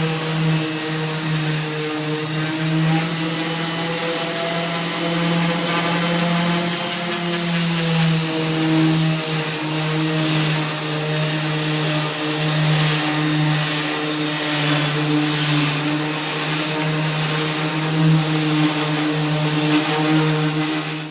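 Power sander running steadily on the tractor hood: a constant motor hum with a hiss of abrasive over the surface, the pitch sagging slightly now and then as it is pressed.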